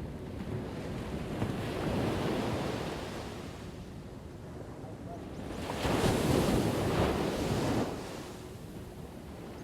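Ocean waves breaking on a shore: surf washes in and out, with a smaller wave about two seconds in and the biggest wave crashing and hissing about six seconds in before it draws back.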